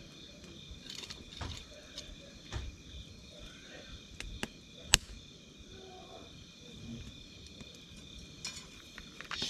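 Wood campfire crackling with scattered small pops and one sharp, loud pop about five seconds in, over a steady high trilling of insects.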